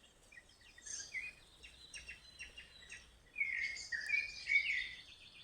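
Small birds chirping and singing in a mix of short calls and trills, thickening into a busier, louder burst of song about three and a half seconds in.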